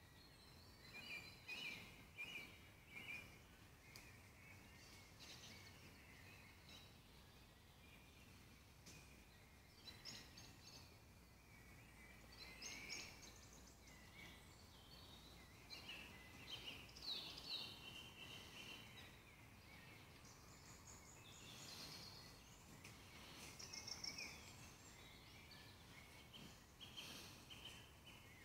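Faint woodland birdsong: several small birds chirping and trilling on and off over a low, steady background hiss.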